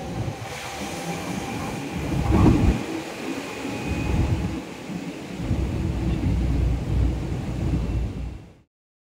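MTR East Rail Line electric train running along the station track: a steady low rumble with wheel clatter and a faint high whine, loudest about two and a half seconds in. The sound cuts off abruptly near the end.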